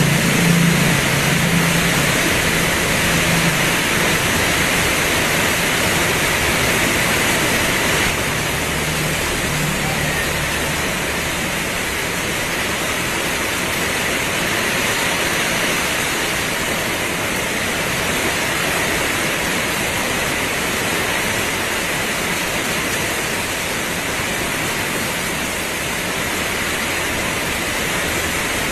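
Heavy rain pouring steadily. A low hum underneath fades out about ten seconds in.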